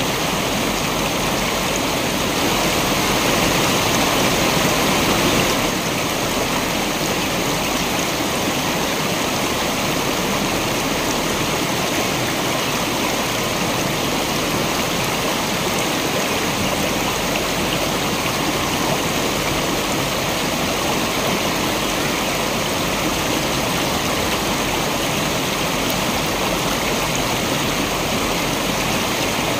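Waterfall and stream water rushing in a steady even roar, a little louder for a few seconds early on.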